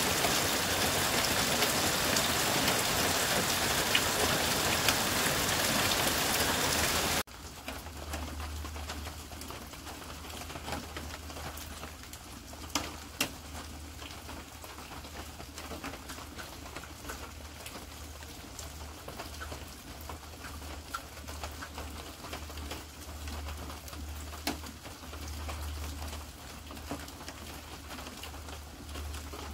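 Heavy rain pouring onto a flooded sandy yard, a loud even hiss that stops abruptly about seven seconds in. After that only light scattered drips, a low rumble and birds calling.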